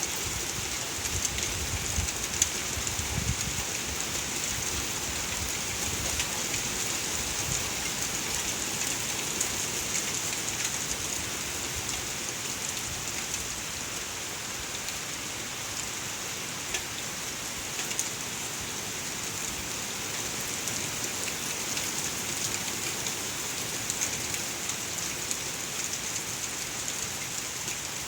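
Heavy rain pouring down steadily, a dense even hiss of drops. A few low thumps come in the first few seconds.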